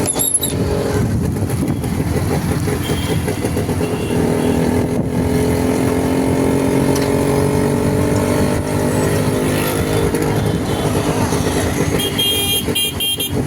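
Motorcycle engine running under way, with road and wind noise, its pitch rising slowly through the middle. Near the end a vehicle horn sounds several short toots.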